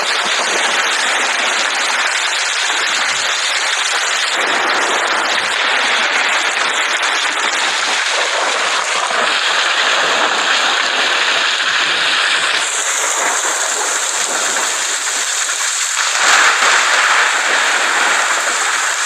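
Steady heavy rain, a dense even hiss, its texture shifting a few times and swelling slightly near the end.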